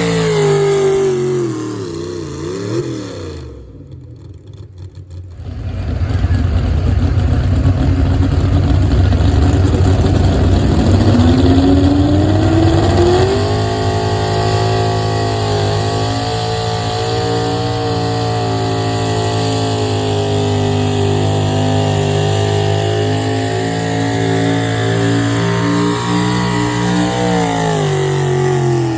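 A competition pulling vehicle's engine under hard load. The revs drop away at first and there is a short lull. About nine seconds in the engine winds up sharply and holds at high rpm for roughly thirteen seconds while pulling the sled, then the revs fall off near the end.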